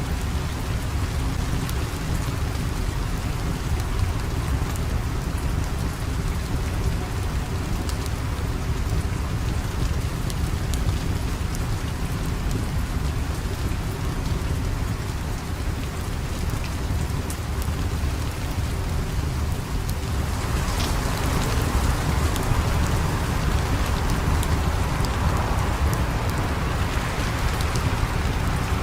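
Steady rain with a deep low rumble under it and scattered sharp ticks. The rain grows heavier and hissier about twenty seconds in.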